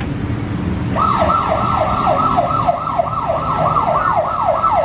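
An electronic siren wail that starts about a second in: a quick falling sweep repeating about three times a second.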